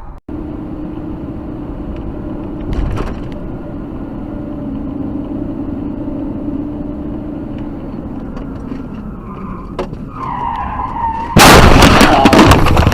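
Steady car engine and road noise, then tyres screeching about ten seconds in, followed by a sudden loud car crash with crunching and clattering impacts near the end.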